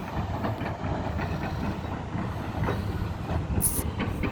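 Heavy demolition machinery working: a steady low rumble with many irregular clanks and knocks, and a short hiss a little before the end.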